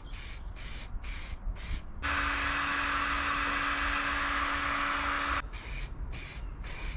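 Aerosol spray can: about five short bursts of spray, then one long spray of about three and a half seconds with a steady low whistle under it, then a few more short bursts.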